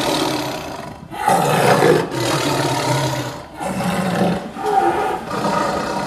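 Tiger roaring, several long, harsh roars one after another with short breaks between them.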